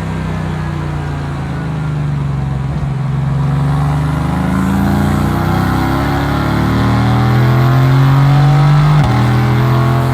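Mercedes-AMG GT S twin-turbo 4.0-litre V8 accelerating under load, its pitch climbing steadily, with a sudden drop in pitch about nine seconds in as it shifts up a gear.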